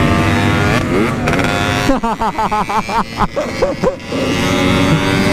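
Yamaha RX-King 135cc single-cylinder two-stroke engine running under way through an aftermarket exhaust. The note holds mostly steady, rises briefly about a second in, and wavers quickly up and down through the middle before settling steady again.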